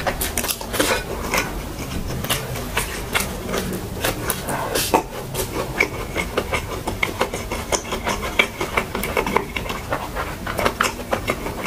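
Close-miked mouth sounds of someone eating fried rice by hand: chewing, lip smacks and many small wet clicks, mixed with light taps of fingers picking grains off a china plate.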